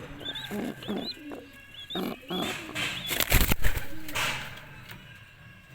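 Pigeons calling: a run of short, high, rising-and-falling peeps together with low cooing, then a loud rustling thump about three seconds in.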